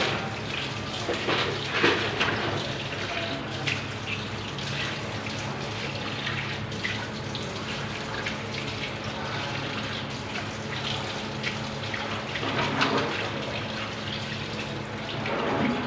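Water running steadily from a faucet, a continuous splashing flow, from a newly replaced tap on the repaired supply line.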